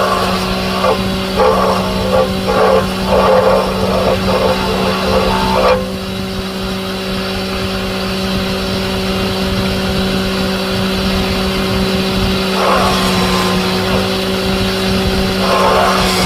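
A motor running steadily with a constant hum. Irregular bursts of rougher noise ride over it during the first six seconds and briefly again near the end.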